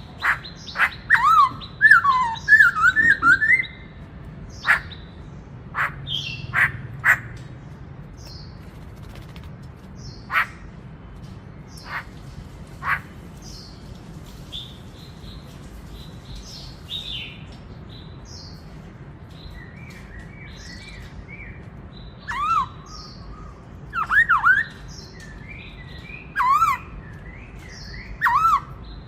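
Black-throated laughingthrush singing: loud whistled phrases that swoop up and down, in bursts near the start and again near the end. Sharp short calls come between them, and there is a quieter lull in the middle.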